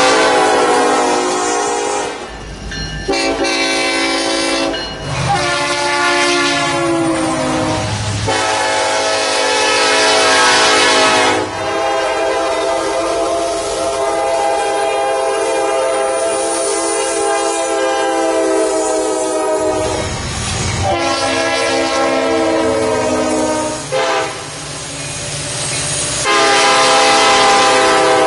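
Freight diesel locomotive's multi-chime air horn sounding a series of blasts: several shorter ones and one long held blast in the middle. The train's rumble shows through in the gaps between blasts.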